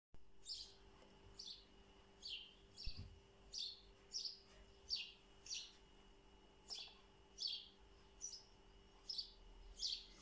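A bird chirping over and over: about fourteen short, high chirps, each falling in pitch, at a fairly even pace of roughly one every 0.7 s. A faint steady hum lies underneath.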